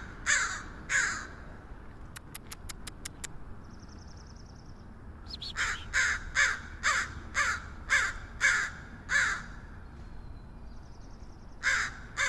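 American crow cawing in short harsh caws: two near the start, a run of about eight from about five and a half seconds in, and one more near the end. About two seconds in comes a quick run of about seven sharp clicks.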